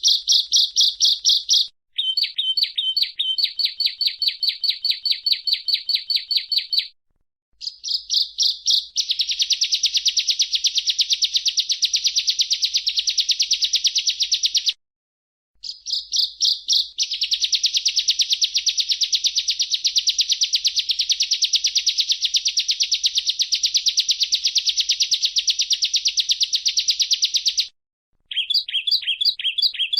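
Bar-winged prinia (ciblek) song: long runs of rapid, high-pitched repeated chips, broken a few times by short, abrupt silences.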